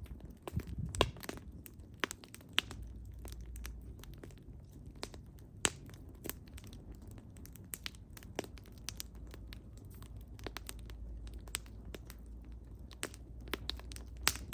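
Wood fire crackling: burning logs giving irregular sharp pops and snaps over a low steady rumble.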